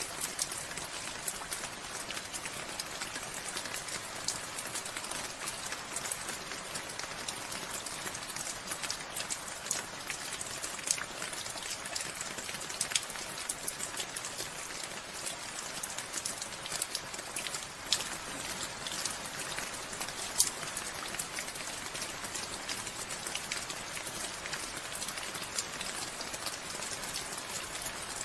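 Steady rain falling, with many close drops striking a surface as sharp clicks over an even hiss.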